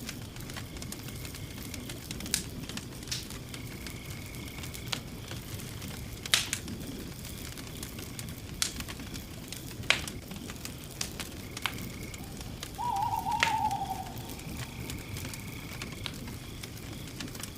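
Campfire burning: a steady low rumble with sharp wood pops every second or two. Faint high steady tones come and go, and a wavering, slightly falling tone lasts about a second about two thirds of the way through.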